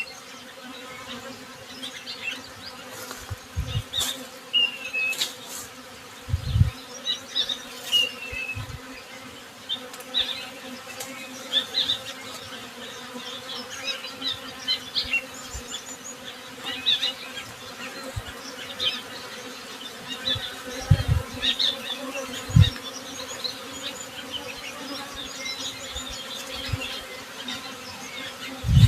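Honey bees buzzing in a steady drone, with birds chirping now and then above it. A few brief low thumps stand out.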